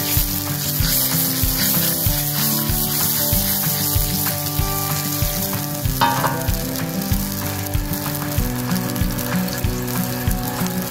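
Lemon sauce sizzling and bubbling in a wok as it is stirred with a whisk, over background music with a steady beat.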